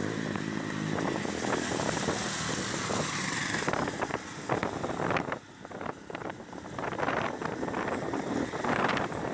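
Motorcycle engine running while riding, with wind rushing on the microphone. The engine tone is plain at first and then sinks under the rush, with short irregular knocks through the second half and a brief drop in level about five and a half seconds in.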